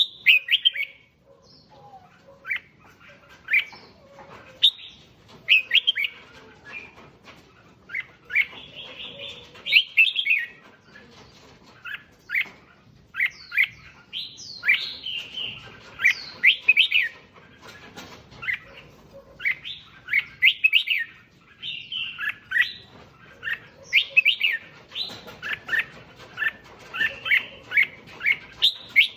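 Red-whiskered bulbul song: short bursts of quick, bright chirping phrases, repeated every second or two.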